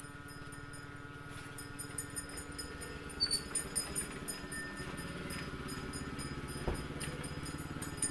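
Close-up eating sounds: a person chewing and smacking on rice and fried tofu eaten by hand, a quick irregular run of small wet clicks starting about a second and a half in, over a faint steady hum.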